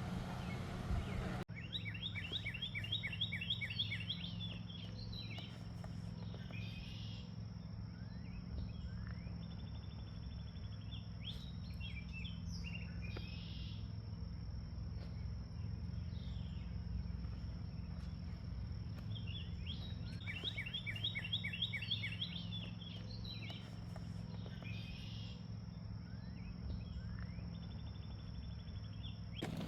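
Birds singing outdoors: a songbird phrase of quick repeated notes comes twice, mixed with scattered chirps and a short trill, over a steady high insect-like whine and a low steady rumble. The sound changes abruptly about a second in.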